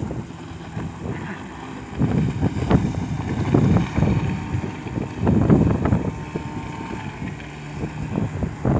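Small outboard motor running on a boat, with irregular gusts of wind buffeting the microphone.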